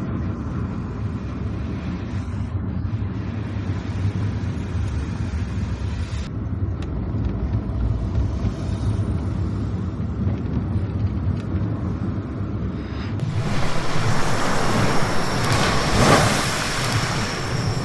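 Car driving on a wet road: a steady low road and engine rumble, then about 13 seconds in a loud rushing hiss of tyres and water spray joins and stays.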